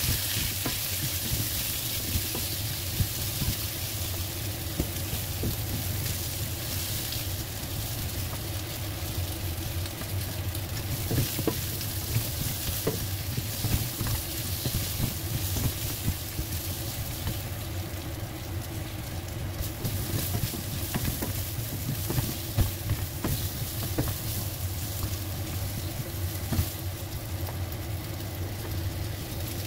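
Sliced rice cakes sizzling in hot oil in a nonstick wok, a silicone spatula stirring and tossing them, with scattered clicks of the spatula against the pan. A steady low hum runs underneath.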